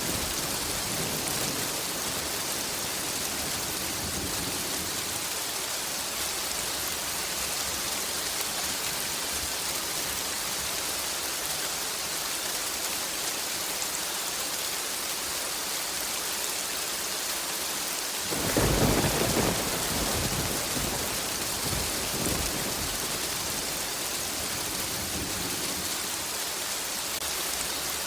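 Steady rain falling, with a sudden clap of thunder about two-thirds of the way through that rumbles on for a few seconds, and a fainter rumble shortly after.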